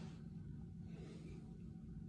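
Quiet background with a low steady hum; no chirps.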